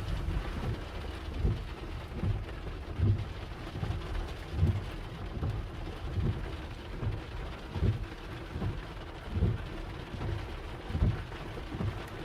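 Heavy thunderstorm rain falling steadily, with a low thump repeating evenly about every second and a half.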